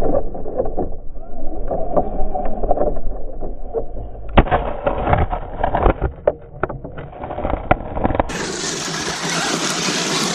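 Muffled rumbling of an RC monster truck driving over rough ground, with many sharp knocks and rattles. About eight seconds in it gives way to a steady hiss.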